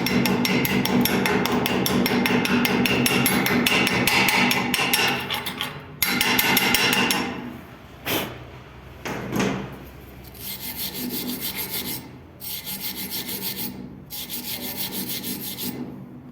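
Arc welding crackling steadily for about six seconds, then two sharp knocks, then three spells of quick rhythmic scraping on metal, like a wire brush cleaning the weld.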